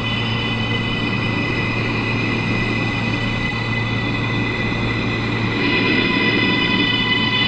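R143 subway train running at a steady speed: a steady low hum and rumble under a high-pitched whine that gets a little louder about six seconds in.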